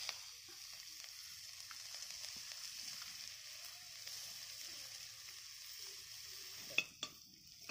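Food sizzling in hot oil in a steel wok over a wood fire, the hiss starting abruptly as the food goes in and holding steady. Near the end a few sharp knocks, as of a utensil or hand against the pan.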